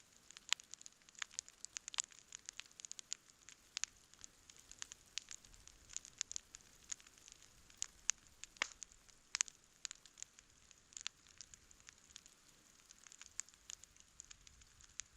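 Campfire burning with frequent, irregular crackles and sharp pops over a faint steady hiss; a few pops stand out louder.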